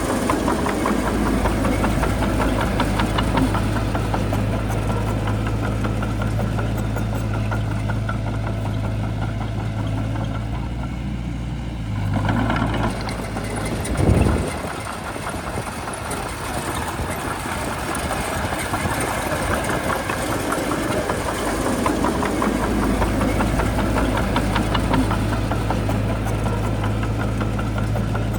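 Shantui bulldozer's diesel engine running steadily with a low hum. It eases off for a few seconds about halfway, with a brief thump, then settles back to the same steady running.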